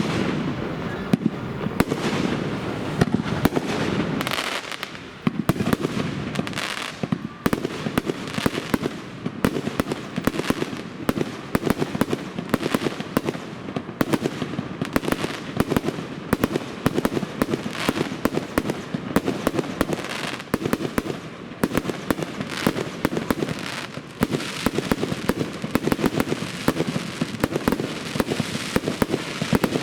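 Aerial fireworks display: a rapid, continuous string of bangs and crackles, several a second, with a few louder bangs among them.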